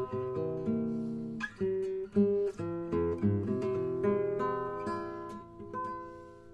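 Acoustic guitar music: plucked and strummed chords that fade out near the end.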